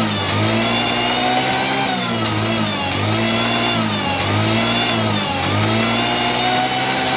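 Supercharged motorcycle engine revving over and over, its pitch dipping and climbing again every second or two.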